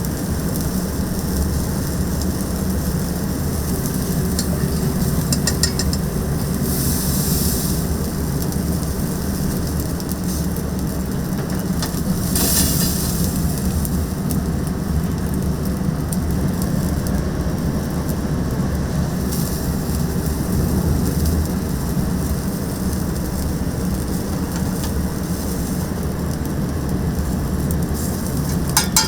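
Restaurant kitchen cooking noise: a steady low hum with food sizzling, and two brief hissing bursts partway through.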